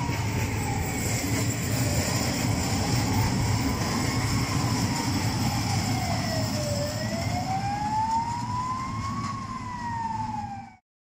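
A long freight train of covered self-discharging hopper wagons rolling past, with a steady heavy rumble and rattle from the wagons. Over it, a whine drifts slowly up and down in pitch every few seconds. The sound cuts off abruptly near the end.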